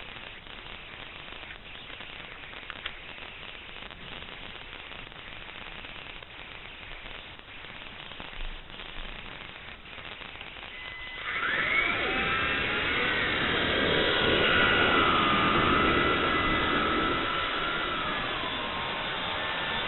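Steady hiss for about the first eleven seconds, then the Xieda 9968 mini RC helicopter's motor and rotor start suddenly and run louder, with a whine that rises and falls in pitch.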